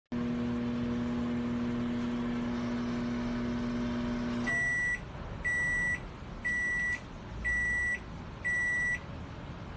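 Hanabishi HMO-20MBD digital microwave oven humming as it runs. The hum stops about four and a half seconds in, and the oven then gives five high beeps, about one a second, to signal the end of the cooking cycle.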